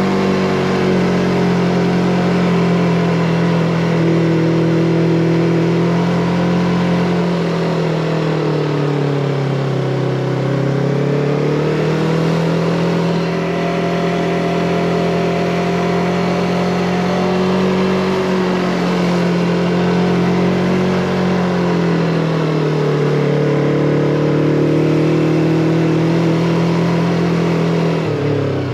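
Yamaha MT-25's parallel-twin engine pulling the motorcycle uphill, its pitch easing down twice and rising again as the throttle changes, then dropping suddenly near the end.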